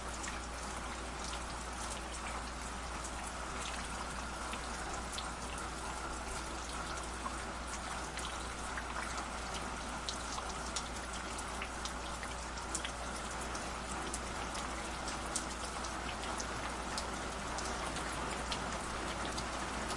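Running stream water, a steady rush with many small sharp splashes and drips through it and a low rumble underneath.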